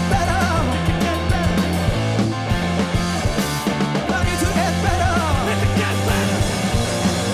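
Live rock band playing a loud, dense song, with sustained bass notes, steady drum hits and wavering melodic lines above.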